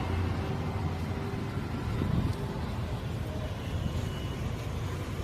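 A steady low rumble of a motor vehicle running, with general outdoor road noise.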